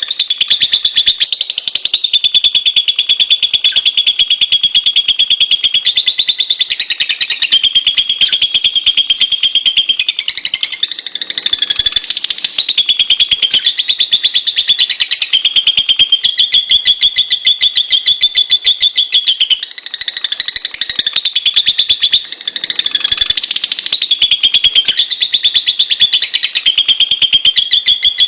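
Lovebird chattering: a continuous, very fast stream of high-pitched chirps, with a few brief dips.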